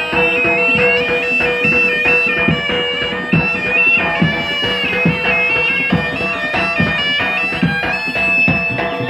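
Jaranan gamelan music: a shrill, nasal slompret (Javanese double-reed shawm) plays a stepping melody over a steady held note and regular kendang drum strokes.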